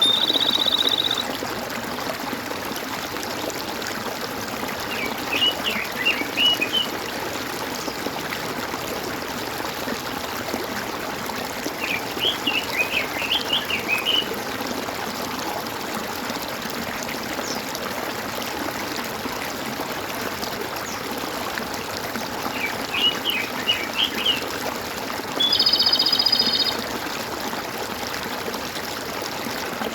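Water gurgling and trickling steadily, with three short runs of bird chirps. Two brief buzzy calls stand out, one at the very start and one a few seconds before the end.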